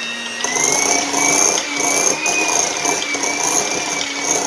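Electric hand mixer running on medium speed, its beaters creaming softened butter and cream cheese in a glass bowl: a steady motor whine over a rough churning noise.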